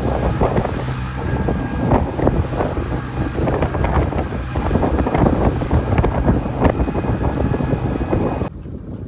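Fishing boat's engine running with heavy wind buffeting the microphone, along with frequent knocks and splashes. The sound drops away suddenly near the end.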